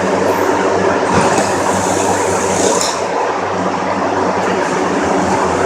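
Cold-storage refrigeration equipment running: a loud, steady drone with a low hum, with two brief knocks about a second and three seconds in.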